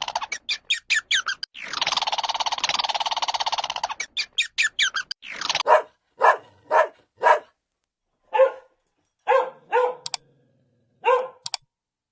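Rapid, dense chattering calls for the first few seconds, then a dog barking in single, separate barks, about nine of them spaced half a second to a second apart.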